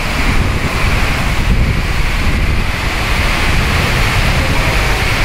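Rain falling, a steady hiss, with wind buffeting the microphone in a low, uneven rumble.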